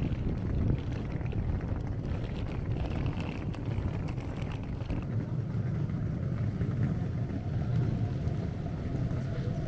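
Steady low engine rumble, with a faint steady whine joining about five seconds in.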